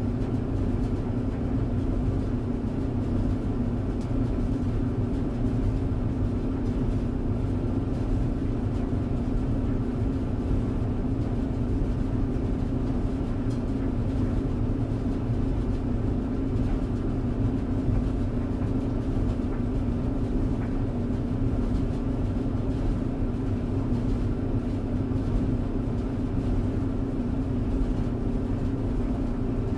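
Tumble dryer running steadily: a low drum rumble under a constant motor hum, with no change in pace or level.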